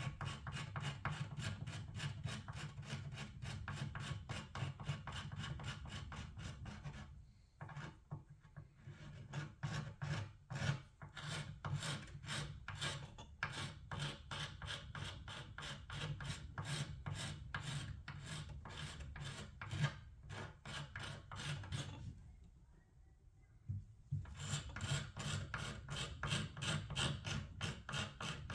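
Old paint and finish being stripped from wood by hand, with quick back-and-forth rubbing strokes, several a second. The strokes pause briefly twice.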